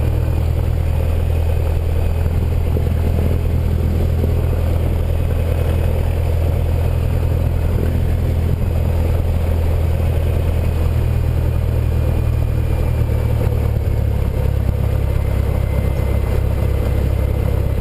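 Cessna 172N's four-cylinder Lycoming engine and propeller running steadily, a strong, even low drone.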